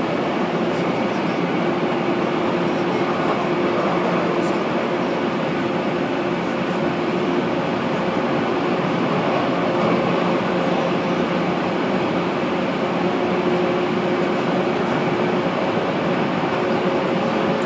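Steady running noise of a 185 series electric train heard inside the carriage: an even rumble of the car in motion with a faint steady hum underneath.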